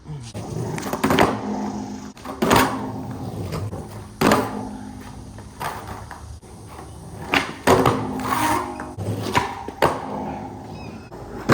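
Skateboard rolling on concrete, its wheels making a steady rumble, broken by several sharp clacks of the board's tail and wheels striking the ground during tricks.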